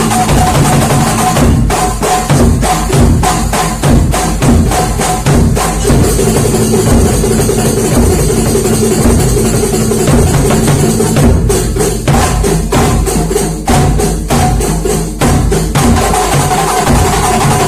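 Kuntulan percussion music: frame drums and other hand percussion play a dense, driving rhythm over a steady held tone.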